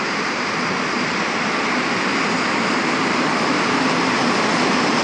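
Passenger train hauled by a PKP Intercity EP07 electric locomotive running into the station, a steady rolling noise that grows slowly louder as it comes closer.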